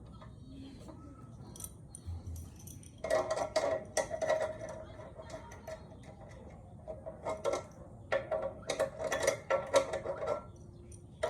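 Metal parts clinking and rattling in two bursts of handling, one about three seconds in and a longer one around eight to ten seconds in.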